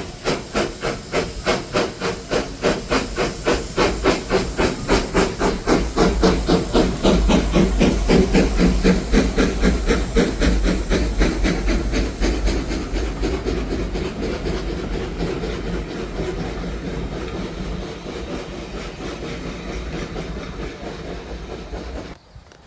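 Steam locomotive working hard with a fast, even beat of exhaust chuffs and a steady hiss of steam. It grows louder to a peak about a third of the way through, then slowly fades as it draws away, and cuts off suddenly near the end.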